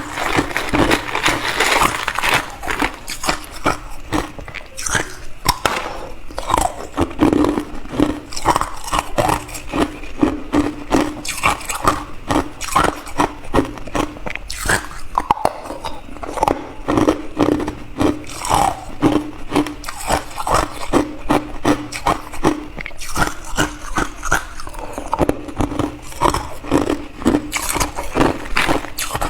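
Hard clear ice being bitten and chewed close to the microphone: a rapid, unbroken run of crunches and cracks.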